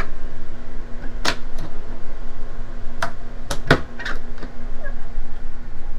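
A run of short, sharp clicks and knocks, several close together in the middle, over a steady low hum.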